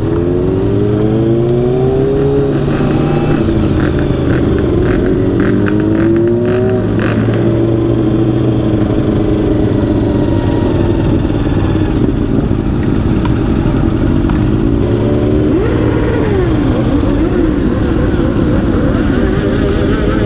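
A motorcycle engine accelerating through the gears: its pitch climbs, drops at a shift and climbs again over the first several seconds. It then runs on at a steady speed, with quick blips of revs up and down near the end.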